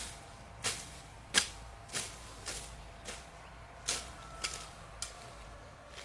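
A run of sharp, regular strikes, roughly one every half to one second, like a hand tool being swung and hitting over and over; the last few strikes are fainter.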